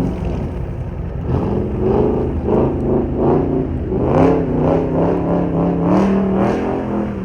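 Dodge Scat Pack's 6.4-litre HEMI V8 revving, its pitch rising and falling several times, then holding steadier at higher revs for the last few seconds before dropping back.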